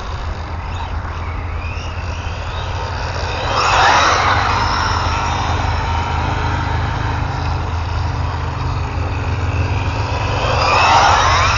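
Brushless electric motor and drivetrain of an Arrma Infraction 3S RC car whining as it accelerates and passes, the pitch rising and falling. It is loudest about four seconds in and again near the end, over a steady low rumble.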